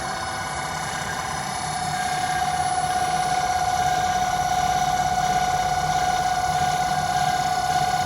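Home-built CNC lathe running with a steady, high motor whine, getting a little louder from about two seconds in.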